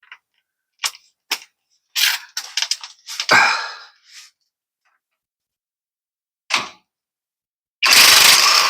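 Metal clicks and knocks of hand tools working the van's rear suspension bolts loose: scattered sharp strikes, a quick run of them about two seconds in, a heavier clank just after three seconds, and a loud, harsh burst lasting under a second near the end.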